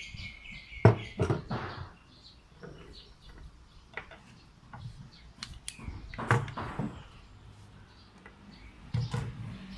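Scattered clicks and knocks of small gun parts being handled during disassembly of an AR-15-style BB gun, loudest about a second in and again around six seconds. A thin high tone sounds briefly at the start.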